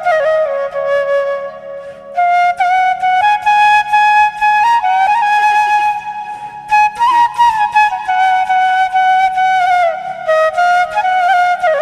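Background music: a flute melody of long held notes that slide between pitches, over a soft repeating accompaniment.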